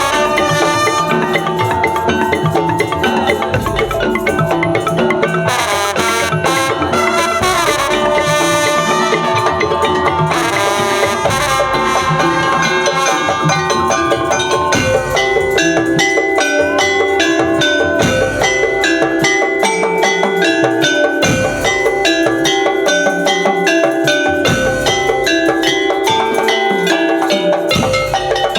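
Loud, steady percussion music: tuned mallet percussion plays quick repeated melodic figures over drums.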